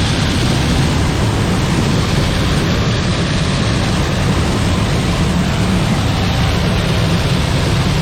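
Combine harvester running steadily under load in the field, a constant low engine and machinery rumble with a wide hiss over it.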